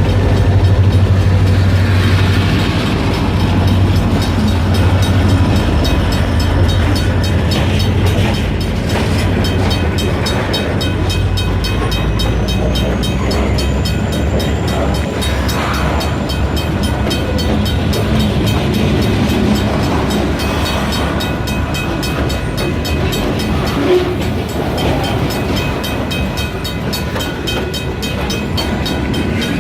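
Freight train rolling past behind EMD SD40-2 diesel locomotives. A low diesel engine hum fades over the first several seconds, then the cars go by with an even clickety-clack of wheels over the rail joints.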